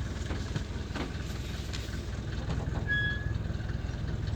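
Mercedes Vito 638's 2.3 four-cylinder diesel (OM601) running with a steady, tractor-like diesel rumble. A short electronic beep sounds once about three seconds in.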